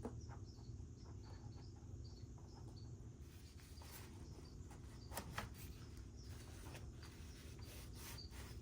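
Insects chirping faintly in a steady, evenly repeating pattern over a low background hum, with a few light clicks and knocks about four and five seconds in.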